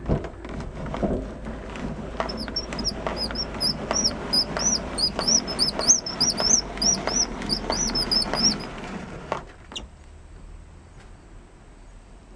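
Rustling and light clicks and knocks of a panel being handled, with a small bird chirping a quick repeated note over it for several seconds. Both stop abruptly about three-quarters of the way through, leaving a faint hiss.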